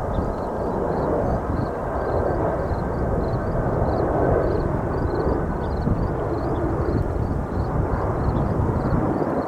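Large jet airliner's engines: a steady roar that swells about four seconds in, likely the Atlas Air cargo jet in view. A faint, regular high chirping, about three a second, runs behind it.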